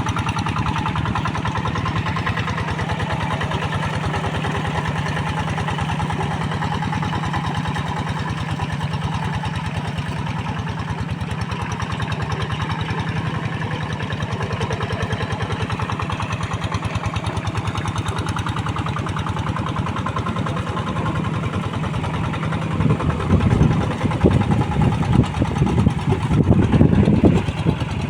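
Two-wheel hand tractor's single-cylinder diesel engine running steadily while plowing a soft paddy field, with a rapid even chugging. Near the end it grows louder and more uneven.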